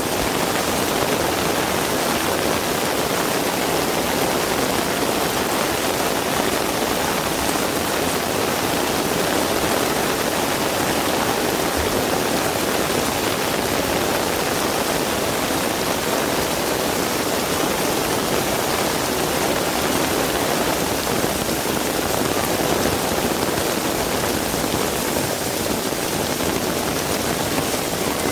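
Heavy rain falling steadily, an even, unbroken rush of rainfall with no distinct drops or gusts standing out.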